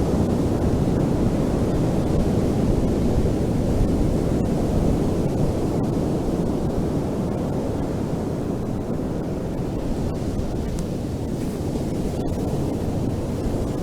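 Ocean surf on a beach: a steady, dense rumble of waves washing in, easing slightly about halfway through.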